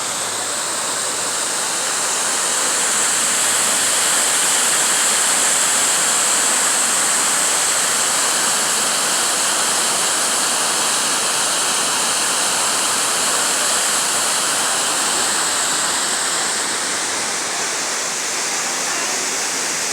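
Waterfall: a loud, steady rush of falling water that swells slightly a few seconds in and eases a little near the end.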